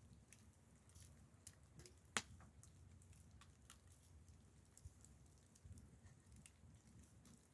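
Near silence with faint, scattered small clicks and taps, and one sharper click about two seconds in.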